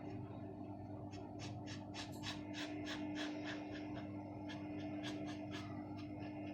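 A paintbrush scratching and tapping lightly as it lays acrylic paint onto a small wooden figure, in short irregular strokes about two or three a second, over a steady low electrical hum.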